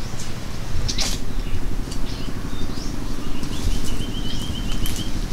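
Small birds chirping, with a quick trill of repeated short notes near the end, over a steady low rumble.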